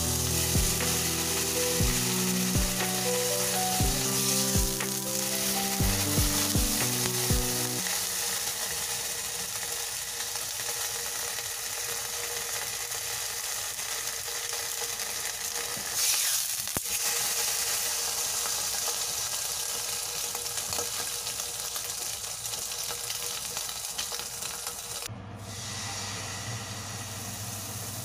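Slice of ham frying in hot oil in a frying pan: a steady sizzle.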